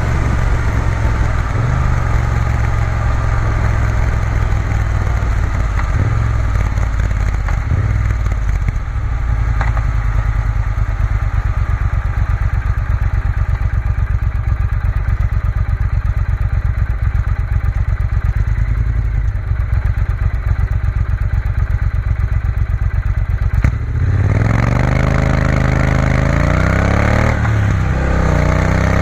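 Triumph Bonneville T120's parallel-twin engine running steadily under way at road speed. A short click comes near the end, and then the engine note rises twice as the bike pulls away.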